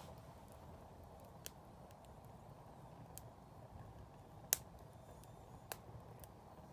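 Wood campfire burning, crackling with scattered sharp pops a second or more apart, the loudest about four and a half seconds in, over a low steady rush.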